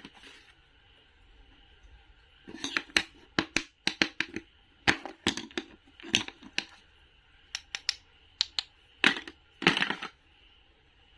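Knife cutting produce on a cutting board: after a short quiet start, an irregular run of sharp clicks and crisp cuts, a few of them slightly drawn out, stopping shortly before the end.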